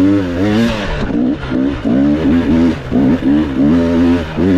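Enduro dirt bike engine revving in short repeated throttle bursts, its pitch rising and falling with each blip.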